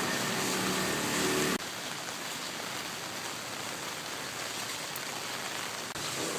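Heavy rain falling steadily in a dense, even hiss. A faint low hum under the rain stops abruptly about one and a half seconds in, leaving only the rain.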